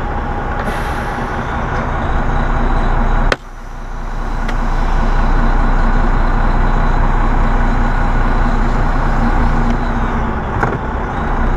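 Semi-truck diesel engine running, heard from inside the cab. There is a sharp click about three seconds in, after which the engine sound builds up over a couple of seconds and holds steady as the truck gets under way.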